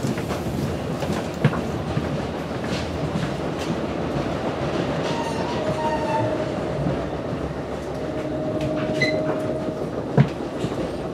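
Ride noise inside a moving NJ Transit Multilevel II commuter coach: steady rumble of steel wheels on rail with scattered clicks and knocks, a faint steady whine through the middle few seconds, and one sharp knock about ten seconds in.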